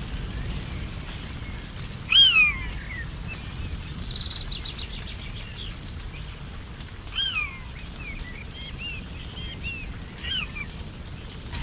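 Forest birds calling: one loud, clear call that slides downward, about two seconds in, repeated more softly twice later, with a quick high trill and scattered short chirps between, over a low steady background hum of the forest.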